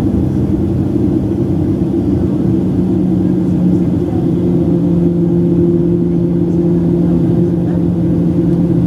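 Steady cabin noise of a Boeing 737-700: a loud low rumble of engine and airflow with a few steady humming tones.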